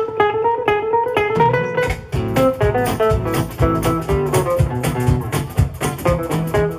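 Jazz band playing an instrumental on guitars: a quick plucked melody over strummed accompaniment, with bass notes coming in about a second and a half in.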